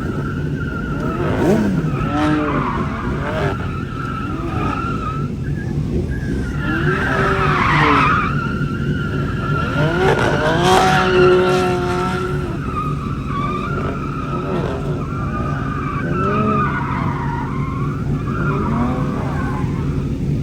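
A car drifting: the tyres squeal steadily while the engine revs rise and fall again and again, loudest about a third and half of the way through.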